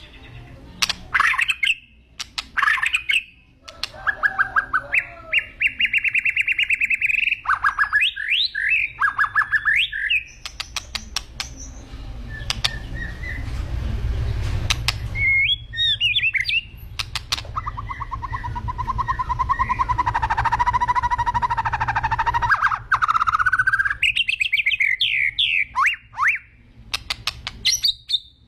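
White-rumped shama (murai batu) singing a loud, varied song of fast trills, whistled glides and sharp clicking notes, with a long warbling, chattering phrase about two-thirds of the way through. A steady low hum runs underneath.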